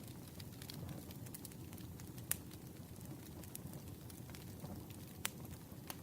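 Campfire burning: a steady low rumble of flames with scattered crackles and sharp pops, the loudest about two seconds in and again about five seconds in.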